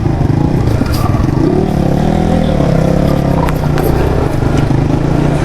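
Motorcycle engine running steadily at low revs, its pitch wavering slightly, with a few light clicks.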